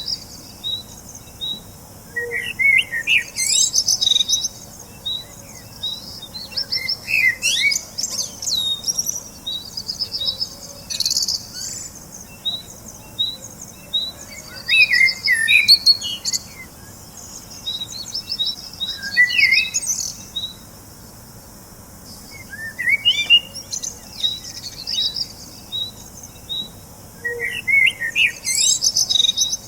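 Birds singing and chirping: short high notes repeat evenly throughout, and longer warbling phrases break in every few seconds.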